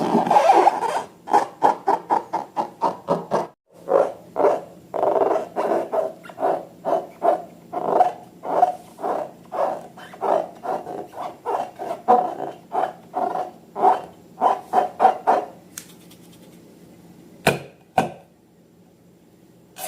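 Slime being worked by hand: repeated squelching strokes, about two or three a second, that stop about three-quarters of the way through. Two sharp clicks follow near the end.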